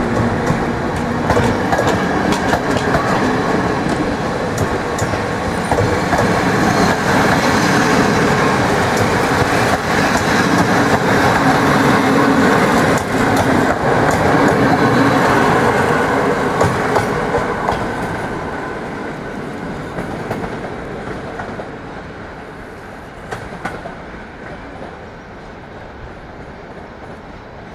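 Loco-hauled passenger train of double-deck and compartment coaches rolling past, its wheels clattering over the rail joints. The sound fades away from about two-thirds of the way through as the rear coach draws off.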